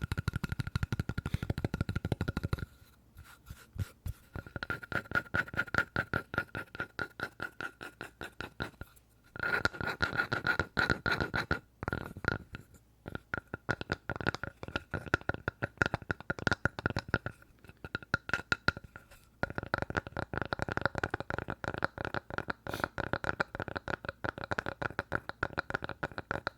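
Rapid ASMR tapping on a piece of wood: a fast patter of many light knocks a second with a faint ringing note, in runs broken by short pauses.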